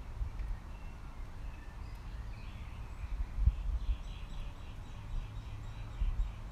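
Birds chirping: scattered short high calls and, from about three and a half seconds in, a rapid repeated trill, over a low irregular rumble of wind on the microphone.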